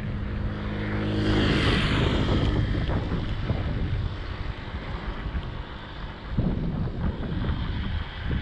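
Wind rumbling on the microphone while riding a mountain bike. A steady hum with several pitches sits under it for the first two seconds or so, and a swell of hiss peaks between one and two seconds in.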